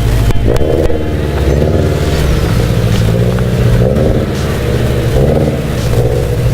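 2017 Subaru BRZ's flat-four boxer engine, breathing through Tomei unequal-length headers and an Invidia N1 exhaust, running after a cold start with a deep, loud exhaust note. Its pitch rises and falls a few times.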